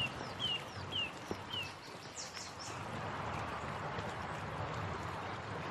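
Quiet outdoor ambience: a small bird repeats a short, high, falling chirp about twice a second for the first second and a half, with a few fainter high chirps after. Then only a soft, steady background hiss.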